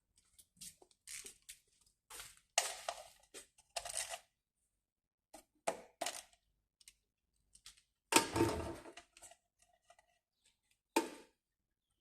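Irregular clinks and scrapes of a wrench on the engine's oil sump drain plug as it is loosened. Some strikes ring briefly, and the loudest clank comes about eight seconds in.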